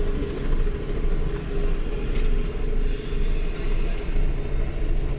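Helicopter's engine and rotor running steadily: a constant low rumble with a steady hum over it.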